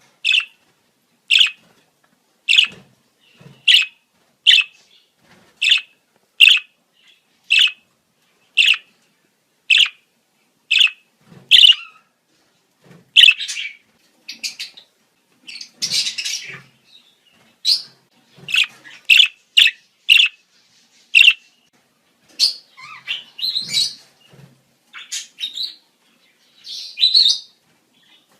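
Budgerigars calling in breeding season: short, sharp chirps evenly spaced about one a second for the first half, then a busier run of mixed chirps and warbling chatter.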